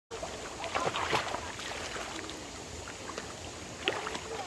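Valley stream water running and splashing over rocks, a steady rushing with a few sharper splashes about a second in and again near the end.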